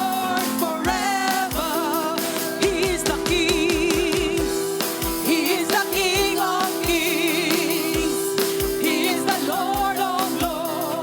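Live worship song: singers with vibrato over a band with held keyboard chords and a steady drum beat.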